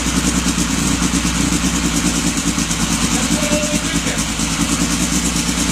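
Freshly built 2.5-litre 8-valve Volvo B230 turbocharged four-cylinder engine idling steadily on its first startup.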